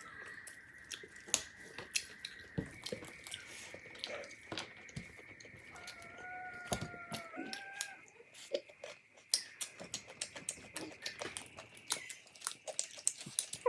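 Close-miked eating sounds: many quick wet clicks and smacks of chewing and biting, over a faint steady high whine. About six seconds in, a short wavering pitched sound is heard for roughly two seconds.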